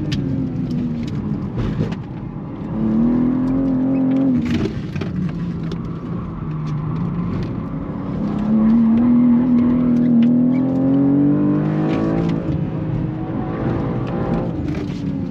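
BMW G87 M2's twin-turbo 3.0-litre inline-six heard from inside the cabin under hard track driving. The revs climb twice, about three seconds in and again slowly from about eight to twelve seconds, and each climb breaks off with a sudden drop in pitch.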